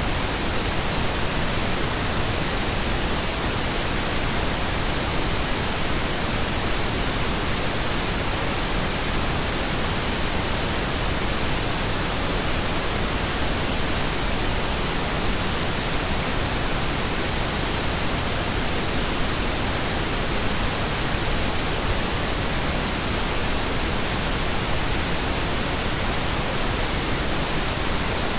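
Steady pink noise: an even, unchanging hiss spread across all pitches, played as a sleep sound.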